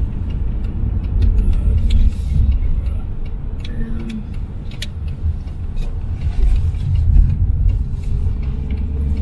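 Steady low rumble of a car's engine and tyre noise on the road, heard from inside the car, with scattered small clicks.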